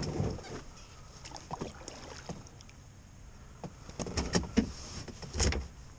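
Scattered knocks and clunks of fishing gear being handled in a Perception Sound 9.5 plastic kayak, with a cluster about four seconds in and a louder thump near the end.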